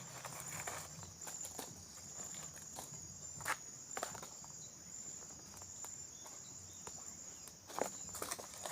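Crickets chirring in a steady, high, continuous drone at dusk, with a few sharp clicks and snaps scattered through it, the loudest about three and a half seconds in and near the end.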